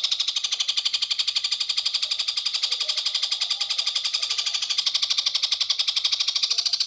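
A songbird's fast, continuous trill: a steady run of high chirps repeated about a dozen times a second.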